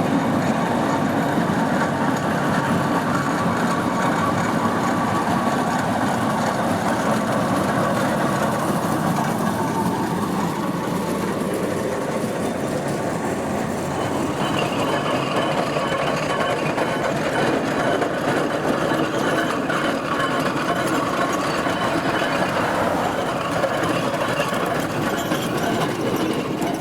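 Steam traction engine travelling along a road, a steady, continuous running clatter.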